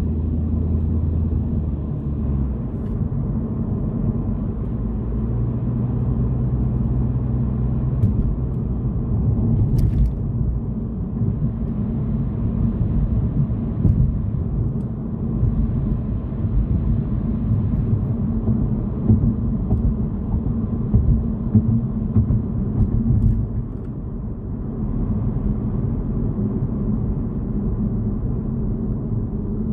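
Steady low rumble of a car's engine and tyres heard from inside the cabin while driving at road speed, with a couple of brief clicks.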